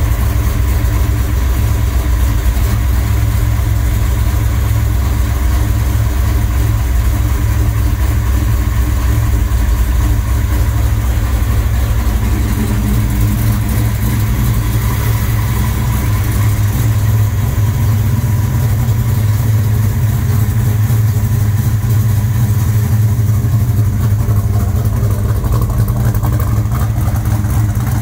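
A 1969 Chevelle SS 396's 396 big-block V8, running on Holley Terminator Stealth fuel injection, idles steadily at about 950 rpm. It is a deep, even rumble from the dual exhaust after the EFI idle tune.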